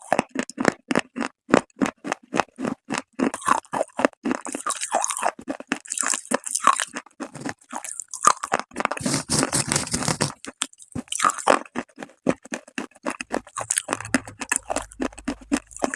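Close-miked crunching and chewing of hard, brittle baked clay, with sharp crunches several times a second and a longer grinding stretch about nine seconds in.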